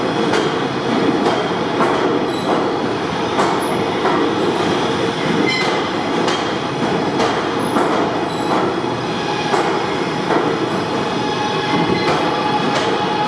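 R211 subway train running along the track: a steady rumble with irregular clicks of the wheels over rail joints, a thin propulsion whine, and some wheel squeal. Near the end the whine rises slightly.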